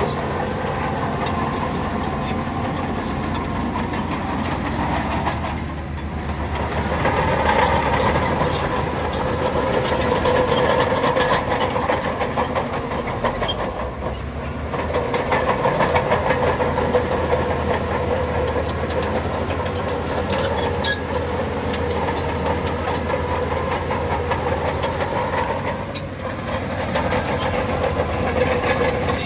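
Shantui crawler bulldozer working, its diesel engine running under load with the clanking squeal of its steel tracks. The sound swells and eases several times as it pushes and backs off.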